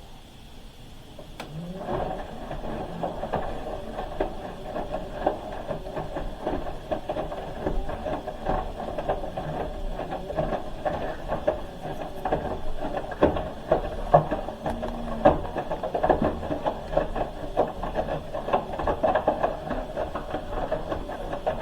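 Hoover H-Wash 300 Plus washing machine starting up about two seconds in, its motor turning the drum with a continuous rattle and clicking of the load as it balances out.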